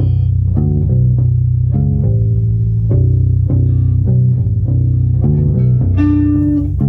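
Bass guitar playing a riff of plucked notes, with a guitar alongside. A new note comes about every half second, and a higher note rings out for most of a second about six seconds in.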